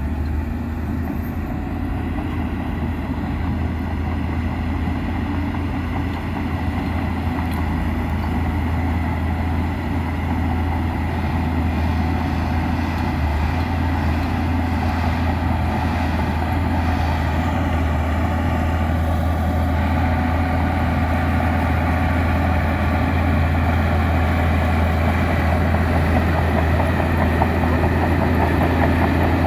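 Heavy diesel engine of earthmoving machinery running steadily with a deep, even drone, growing slightly louder over the second half.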